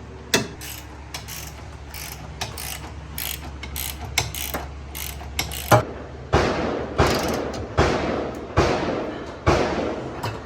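Hand ratchet wrench clicking as a suspension upper control arm bolt is tightened by hand; from about six seconds in, regular rasping strokes come a little under one a second.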